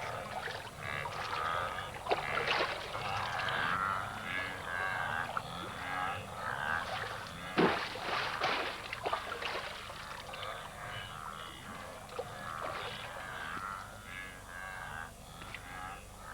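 Water splashing and churning as crocodiles tear at a wildebeest calf carcass, with a loud splash about 7.5 seconds in, over a dense chorus of animal calls.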